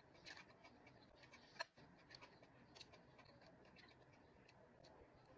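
Faint mouth sounds of a person chewing food: soft wet clicks and smacks scattered through, with one sharper click about one and a half seconds in.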